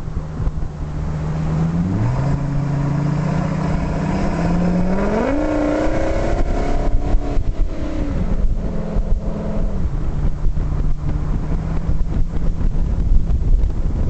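Ford F-350's 6.8-litre Triton V10 running on LPG: the engine's revs step up and climb sharply about five seconds in, hold for a couple of seconds, then fall back near the eight-second mark and run on steadily at lower revs.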